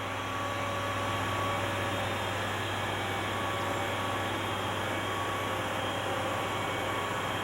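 Steady hiss with a constant low hum and no change in level, without the rise or fall of a passing aircraft.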